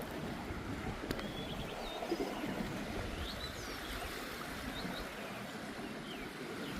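Steady wash of sea waves along a rocky shore, with a few faint, short, high bird chirps scattered through it.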